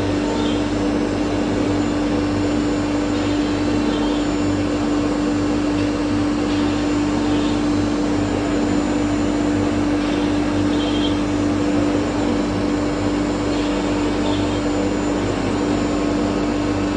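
CNC router running steadily, its spindle giving a constant hum over a broad rushing noise from cutting and dust extraction. Faint higher sounds come in pairs about every three and a half seconds.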